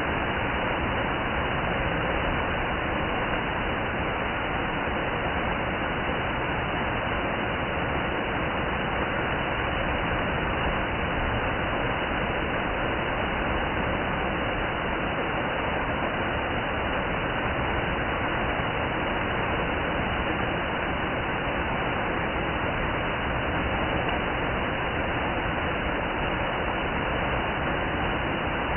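Chadwick Falls' water pouring down, a steady, unchanging rush of noise.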